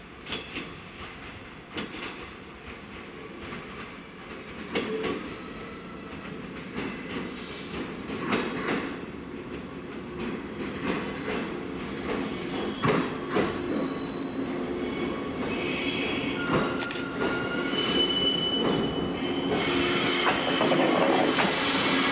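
Old JNR-type electric train running on the rails, growing steadily louder, with scattered clicks early on and high wheel squeal in the second half.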